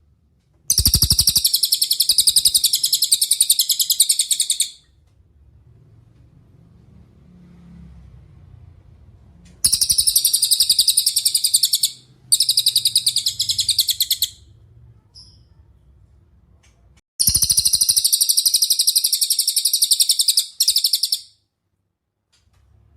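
Cililin singing: long, very rapid high-pitched trills, four bouts of about two to four seconds each with short pauses between, the last one breaking briefly near its end.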